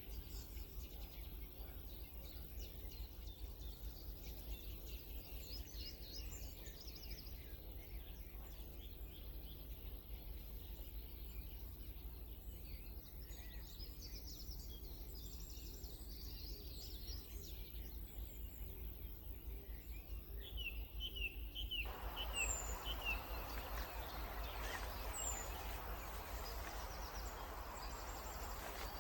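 Wild birds singing, with many short high chirps and trills. About two-thirds of the way through the background abruptly turns to a louder hiss, and a bird repeats short falling notes.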